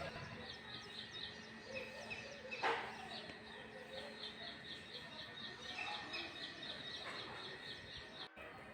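Faint bird chirping: quick runs of short, high chirps repeated several times a second. A single soft knock about two and a half seconds in.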